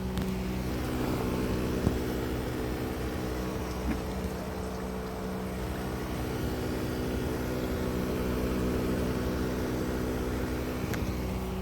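Outdoor unit of a Mitsui split air conditioner running in heat mode: a steady compressor and fan hum with several steady low tones over a whir, lots of noise.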